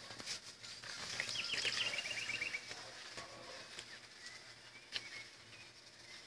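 A small bird sings faintly in the background: a short trill of about ten quick, repeated chirps, starting about a second in and lasting a little over a second. Light handling clicks and a low steady hum run underneath.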